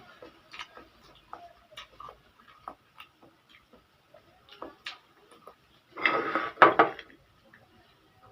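A person eating noodles: scattered small clicks and smacks from chewing and utensils, then a louder noisy sound in two quick pulses lasting about a second near the end.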